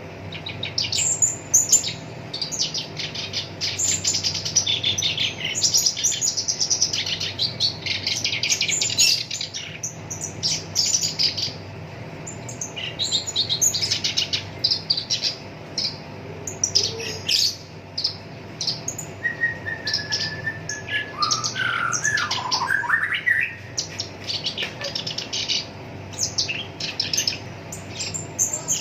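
Black-browed reed warbler singing a fast, harsh chattering song of dense runs of high notes, with a lower sliding phrase about two-thirds of the way through. A faint steady hum lies underneath.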